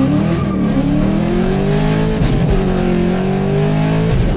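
Chevrolet Camaro SS's 6.2-litre V8 pulling hard under throttle, heard from inside the cabin: the engine pitch climbs, wavers about two seconds in, climbs again and drops sharply near the end.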